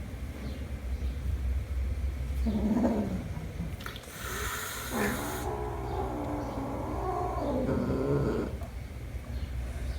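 Domestic cat vocalizing: a short call about two and a half seconds in, then a long wavering call of about three seconds. A brief burst of hissing noise comes between them.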